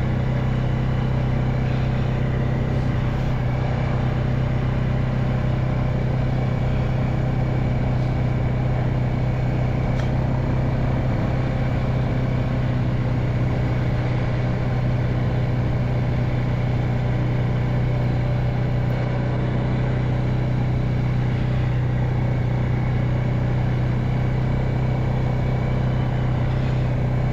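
Quad bike engine running steadily under way, an even low hum that holds the same pitch throughout.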